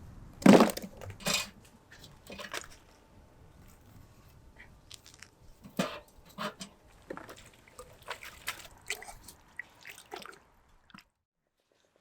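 Close eating sounds: chewing and gnawing meat off goat rib bones, with scattered sharp clicks and smacks, the loudest two near the start. The sound cuts off abruptly about a second before the end.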